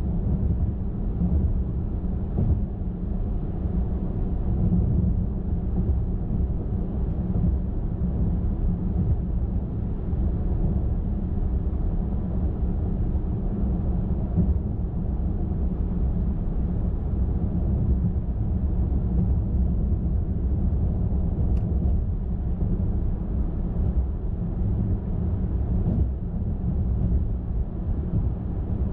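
Steady low road noise of a car driving at highway speed, with tyre rumble and engine drone.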